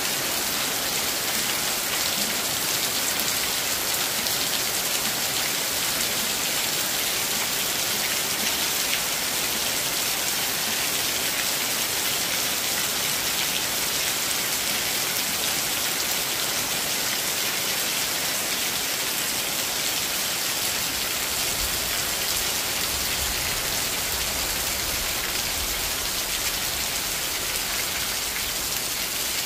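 Heavy rain falling steadily on trees and rooftops, an even, unbroken hiss. A faint low rumble comes in about two-thirds of the way through.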